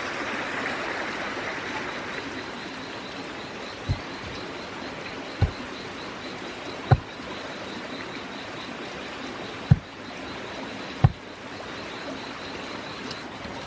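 Steady rushing noise with a faint high steady tone above it. Five dull low thumps come at uneven intervals of about one to three seconds through the middle of the clip.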